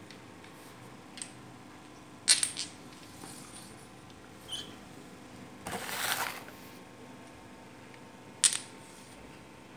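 Domino tiles being set down and clacked against each other on a hard surface: a few separate sharp clicks, with a short rattling slide of tiles about six seconds in.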